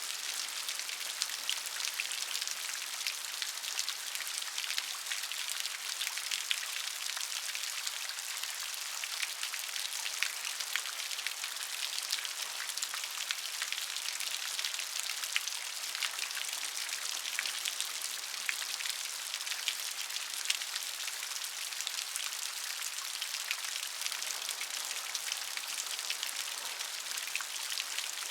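Steady rain falling, with many separate drops pattering sharply over a constant high hiss.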